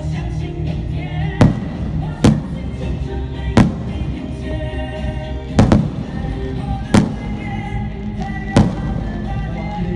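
Fireworks bursting overhead: about six sharp bangs, one every second or two, over steady music.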